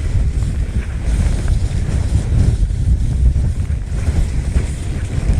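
Strong wind buffeting the camera's microphone, a dense low rush that rises and falls in uneven gusts.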